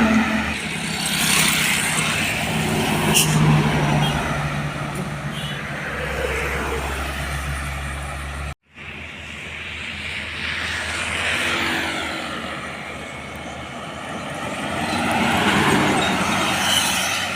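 Road traffic going by: trucks and cars passing one after another, engine and tyre noise swelling and fading as each goes past. The sound cuts out for an instant about halfway through.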